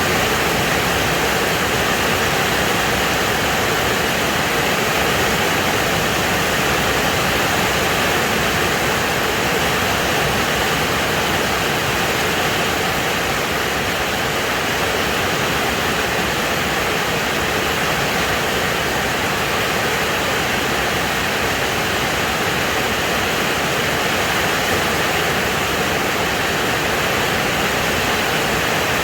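Heavy storm rain pouring down steadily, a dense even hiss with no letup.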